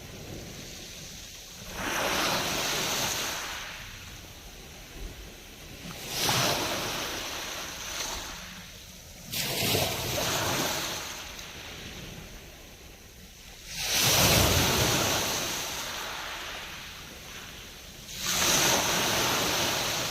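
Black Sea waves breaking on the shore, five of them about every four seconds, each a sudden rush of surf that fades away.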